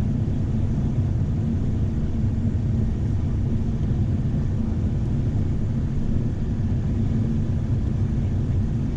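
Steady low rumble of airflow and twin turbofan engines in the cockpit of a Cessna Citation Excel business jet on final approach, between the minimums callout and the flare.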